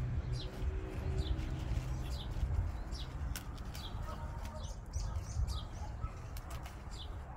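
Small birds chirping: a steady run of short, high chirps that drop in pitch, about two a second, over a low rumble.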